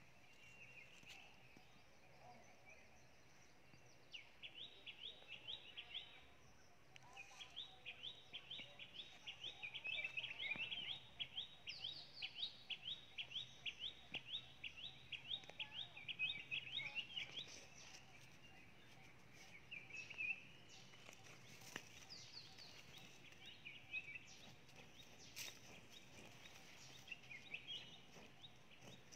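A bird calling: a long run of quick, repeated chirps, several a second, starting about four seconds in and breaking off after the middle, then only scattered chirps, with a few faint clicks.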